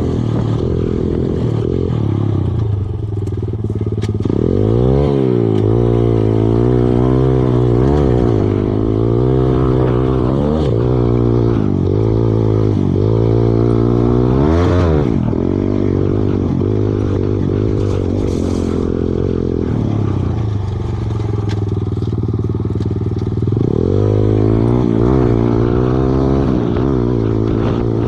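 Kawasaki KLX110 dirt bike's small four-stroke single-cylinder engine running while ridden, its pitch rising and falling again and again as the throttle is opened and closed.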